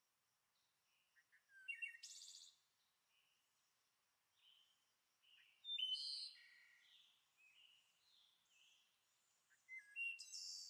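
Faint birdsong: scattered short chirps and calls from several small birds, with brief louder bursts about two seconds in and again around the middle.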